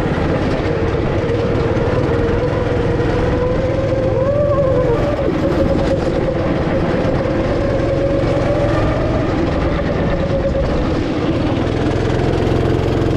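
Go-kart engine running loud and steady as the kart drives, its pitch wandering up and down a little, with a brief rise about four seconds in.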